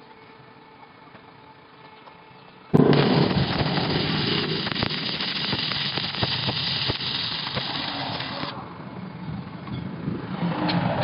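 Electric welding arc struck about three seconds in, crackling steadily for about six seconds, then falling quieter and building again near the end.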